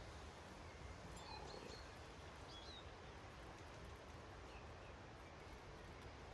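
Faint, short chirps of small garden birds, a few scattered calls over a quiet steady outdoor background hiss and low rumble.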